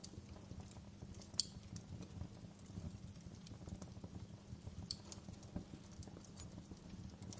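Wood fire crackling: irregular snaps and pops over a low steady rumble, with a sharper pop about a second and a half in and another about five seconds in.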